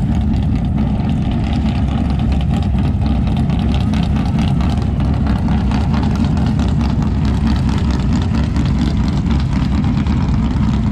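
Drag-race car engine idling loudly and steadily.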